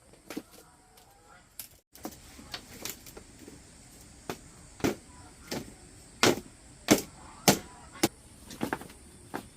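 Hand-tool blows at building work, a series of sharp knocks that get louder and more regular about four seconds in, roughly two every second or so.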